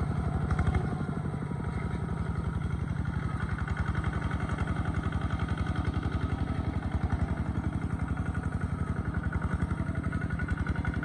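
Small tractor's engine running steadily with a fast, even chugging.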